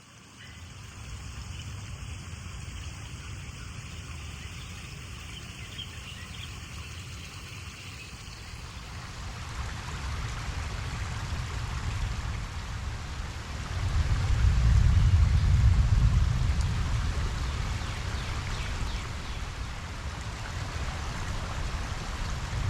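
Rain falling on a pond, a steady hiss that grows heavier about nine seconds in. Under it a low rumble of distant thunder swells to its loudest a little past the middle and then eases.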